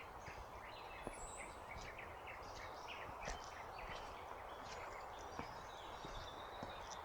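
Woodland birds chirping and calling, many short overlapping calls with a high whistle about a second in, over a faint steady hiss.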